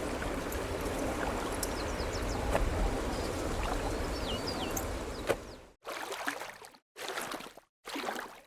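Water running, a steady rushing with a low rumble and a few short high chirps over it. About six seconds in, it turns into short separate bursts of water sound, each under a second, with silent gaps between them.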